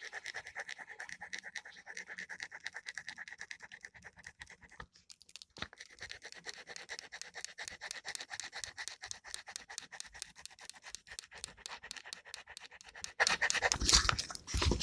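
A gel pen scratching on paper in fast back-and-forth strokes while an area is coloured in, with a brief pause partway through. Near the end comes a louder rustling noise.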